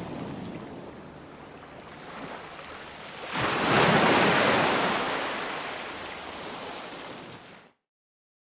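Ocean waves on a shore: a steady wash, then a wave breaks about a third of the way in and slowly washes out. Near the end the sound cuts off abruptly into complete silence.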